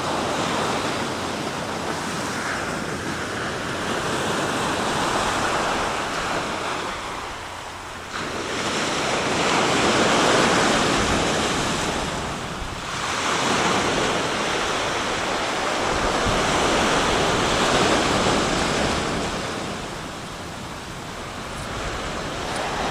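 Sea waves breaking and washing on the shore: a continuous surf noise that swells and ebbs every few seconds, with one wave breaking suddenly about eight seconds in.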